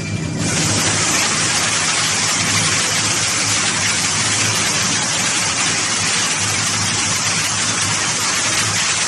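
A loud, steady hiss that starts suddenly about half a second in, over a low, steady machinery hum.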